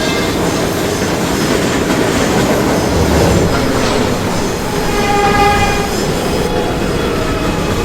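New York City subway train running loudly through the station, with wheels squealing on the rails in a ringing, pitched screech about five seconds in.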